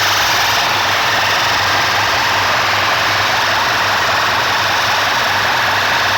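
A DJ sound system's speaker stacks playing a competition mix at full volume. So much is packed into the recording that it comes out as a steady, dense din with a constant deep hum underneath.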